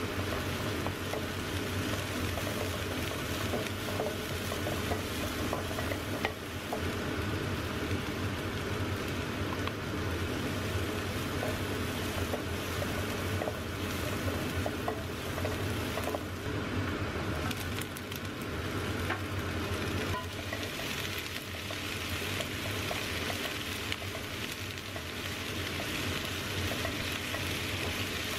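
Chopped chilli, garlic, ginger and scallion sizzling in oil in a nonstick wok, stirred with a wooden spatula that scrapes and taps the pan now and then. A steady low hum runs underneath.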